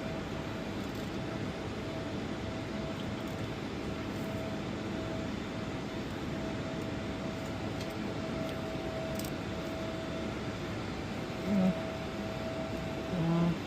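Steady machinery hum with a constant mid-pitched tone, broken near the end by two brief, louder low sounds.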